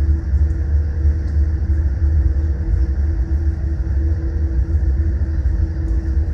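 Boeing 787 Dreamliner cabin noise: a steady low rumble under a constant hum, with no change in pitch.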